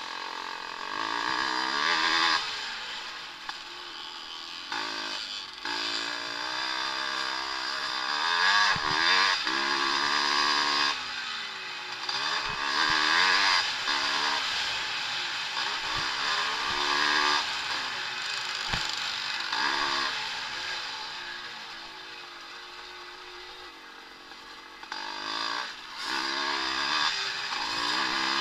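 Vintage motocross motorcycles racing, their engines revving up and down through the gears. The sound swells and fades several times as bikes pass.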